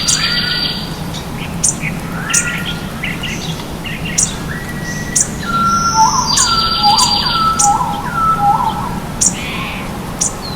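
Several songbirds singing over the steady rush of a running stream. One bird repeats a short stepped phrase four times in a row in the second half, and another gives a fast high trill at the start and again about six seconds in. Short, sharp high ticks are scattered throughout.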